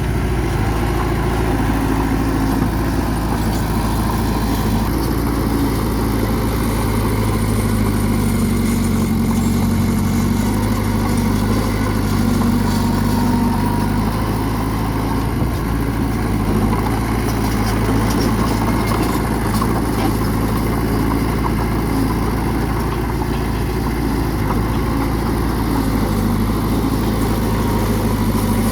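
Bulldozer's heavy diesel engine running steadily under work, its pitch shifting slightly up and down every few seconds.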